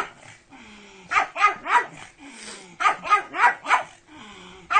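Pug barking in quick runs, three barks and then four in rapid succession.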